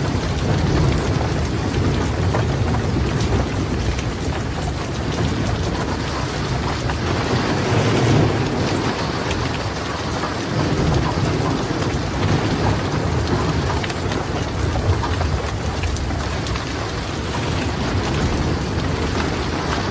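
Steady heavy rain pattering with low rolling thunder that swells and fades several times. Scattered sharp crackles from a wood fire are mixed in.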